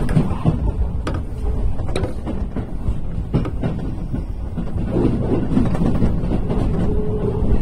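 Keio 8000 series electric train running out of a station, heard from inside the cab: a steady rumble of wheels and running gear, with irregular sharp clacks as the wheels cross the points and crossovers.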